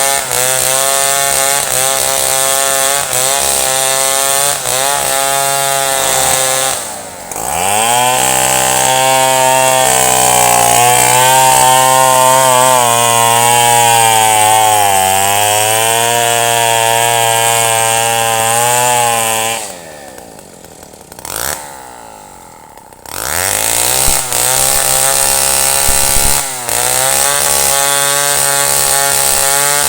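Chainsaw running at high revs while cutting wood, its pitch wavering under load. It drops briefly about a quarter of the way in, then falls to a quiet idle for about three seconds past the middle before revving back up.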